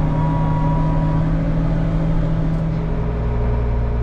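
Tractor engine running steadily, heard from inside the cab; about three seconds in its note drops to a lower, deeper pitch.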